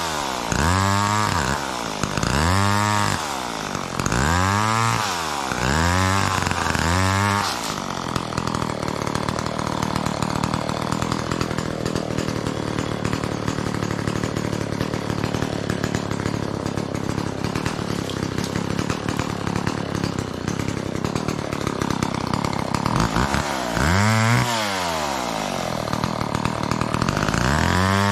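McCulloch Mac 10-10 two-stroke chainsaw revved up and back down about five times in quick succession. It then runs at a steady idle for some fifteen seconds before being revved twice more near the end.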